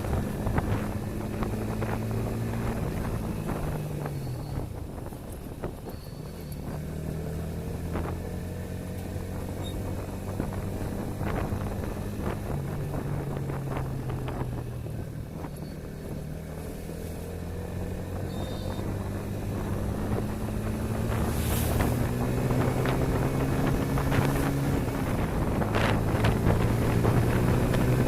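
Motorcycle engine running under way, its pitch falling and rising several times with gear changes and speed, with wind buffeting the microphone. It grows louder near the end.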